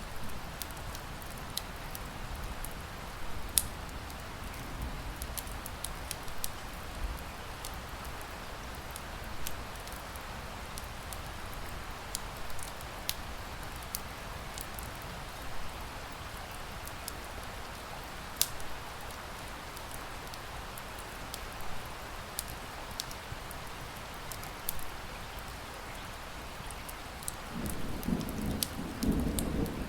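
Steady rain hiss with irregular sharp pops and crackles of a burning wood fire scattered through it. A low rumble builds near the end.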